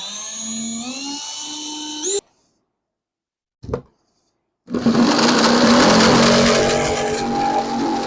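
A power drill whining and rising in pitch in steps, then cutting off abruptly, as a hole is drilled in a plastic ice-cooler lid. After a short burst, a louder, rougher power-tool sound starts about five seconds in: a jigsaw cutting the opening out of the lid.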